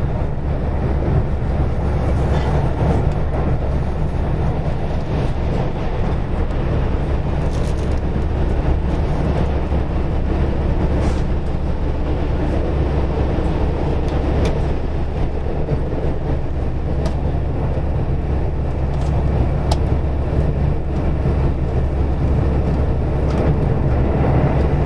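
Steady running noise of a KiHa 185 diesel railcar heard inside the car: a low engine and wheel-on-rail rumble with a few faint clicks.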